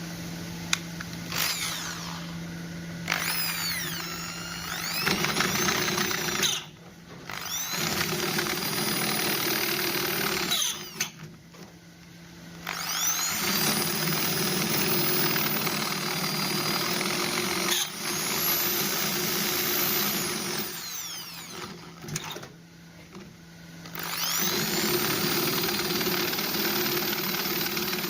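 Electric hand drill running in several short bursts of a few seconds each, starting and stopping between runs, as holes are drilled to mount lights on a tractor.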